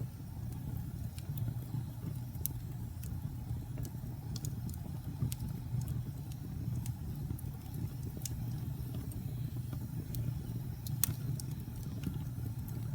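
Wood fire crackling in a fireplace: a steady low rumble with scattered sharp pops and snaps, one louder pop about eleven seconds in.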